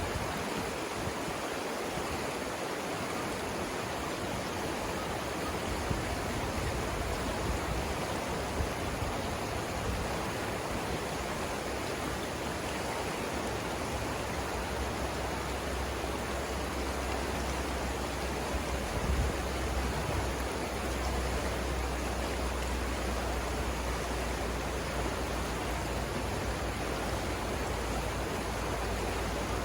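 River rapids rushing steadily, an even wash of flowing water. A low rumble joins it about halfway through.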